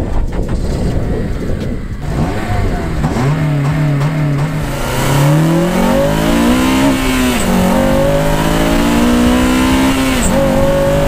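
FN2 Honda Civic Type R's 2.0-litre four-cylinder petrol engine accelerating through the gears. The pitch climbs steadily, falls at a gear change about 7 seconds in, climbs again and falls at a second change about 10 seconds in.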